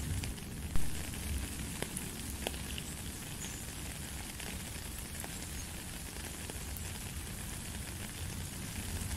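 Steady rain falling into a puddle on a stony path, with scattered sharp drip sounds and one louder drip about a second in.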